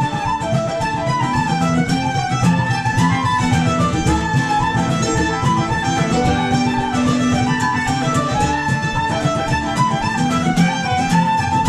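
A Celtic band playing a lively traditional tune on strings, a Red Diamond mandolin among them: a quick melody with many rapidly picked notes over sustained lower notes.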